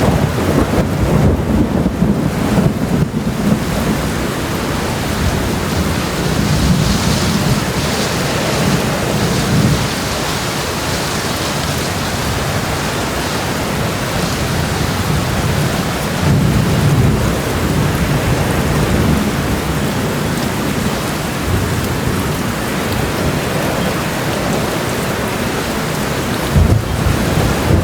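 Steady, heavy rain shower, with deeper rumbling swells rising and fading a few times.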